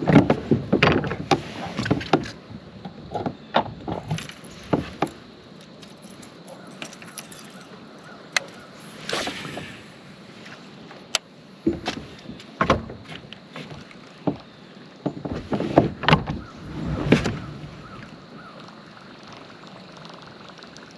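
Irregular knocks, clunks and rattles of fishing gear being handled and bumped against a kayak, in scattered clusters.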